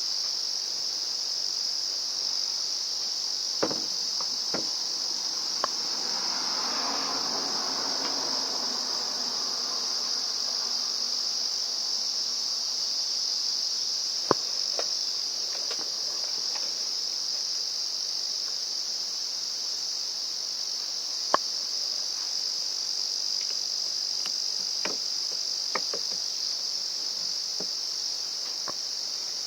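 Steady high-pitched insect chorus running without a break, with a few light clicks and taps scattered through it.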